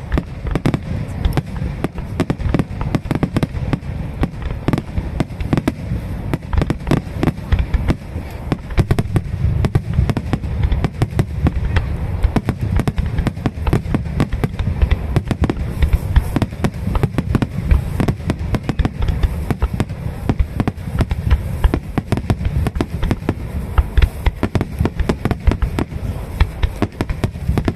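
Dense, unbroken barrage of aerial firework shells bursting, several bangs a second over a deep low-end boom.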